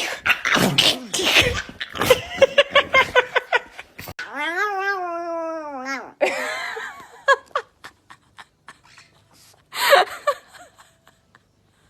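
A pet's long, drawn-out cry, rising then falling in pitch over about two seconds, after a run of rapid short clicks and sounds. Sparse clicks follow, with one short loud burst near the end.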